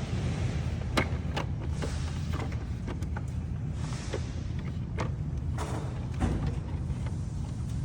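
Scattered clicks and knocks of a motorhome's side turn-signal and camera housing being worked back into place by hand, a few sharper knocks about a second in and around five to six seconds in, with short scraping rustles between, over a steady low rumble.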